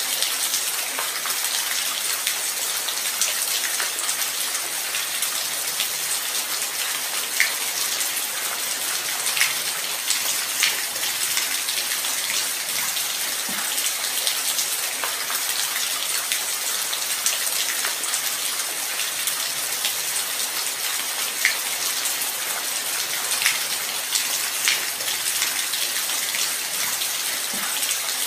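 Steady light rain falling, an even hiss with louder single drops ticking now and then.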